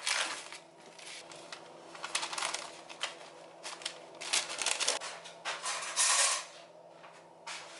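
Irregular clicks, knocks and short scraping or rustling noises, as of things being handled, over a faint steady hum.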